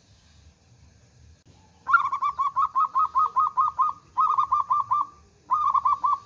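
Zebra dove (perkutut) singing: three runs of rapid staccato cooing notes, about five a second, beginning about two seconds in, with short breaks between the runs.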